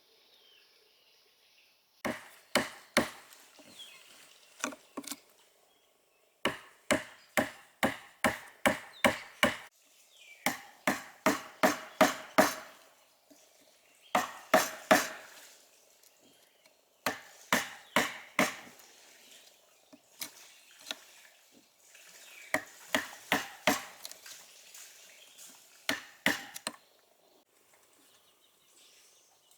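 Wood being chopped with a blade: sharp blows about three a second, in runs of a few seconds with short pauses between.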